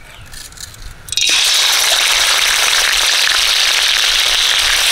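Onion paste dropped into hot oil in a kadai: after a quiet first second, a sudden loud sizzle and crackle sets in and holds steady.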